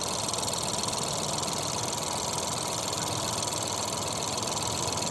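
Ford Fiesta 1.0 EcoBoost three-cylinder petrol engine running steadily at idle, with a steady hiss over it.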